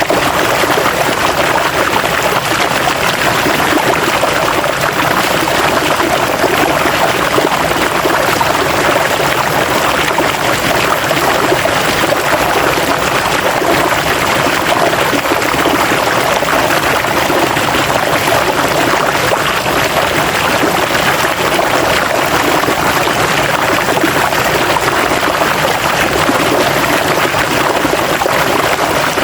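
River water running over rocks: a steady, even rush and splash with no pauses.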